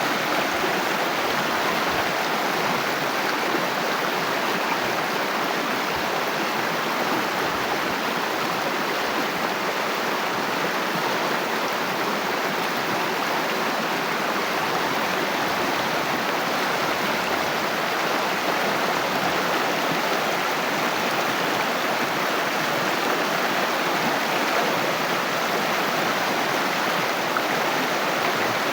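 Water flowing steadily, a constant rushing and gurgling with no change in level.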